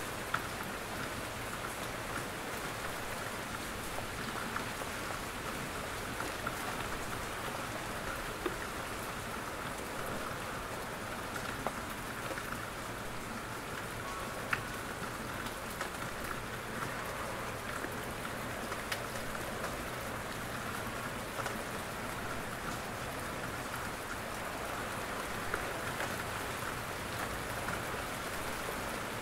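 Steady rain falling in a forest, an even hiss of rain on leaves with scattered louder single drops.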